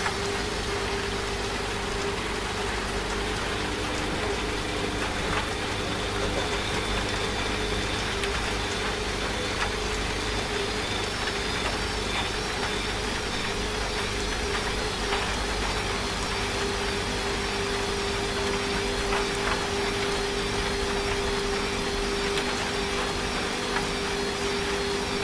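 Washing machine running with a steady motor hum, mixed with the even hiss of falling rain.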